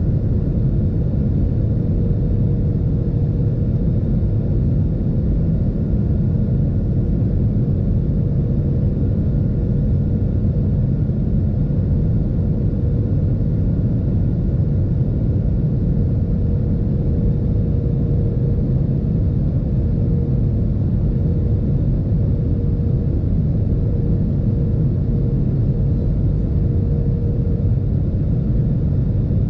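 Steady cabin rumble of an Airbus A320-216 in flight on descent, its CFM56 engines and the airflow over the fuselage heard from inside the cabin, with a faint steady whine riding on the rumble.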